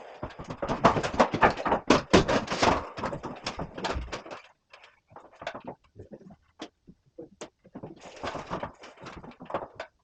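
Clattering and knocking of hard objects, a dense run of knocks for about four seconds, then scattered single knocks, and another burst of clatter near the end.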